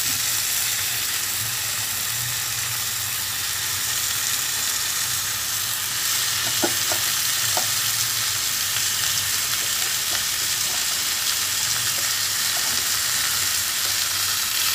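Chopped onions frying in hot oil in a kadai, sizzling steadily as pieces of raw liver are laid in on top. A few light clicks about seven seconds in.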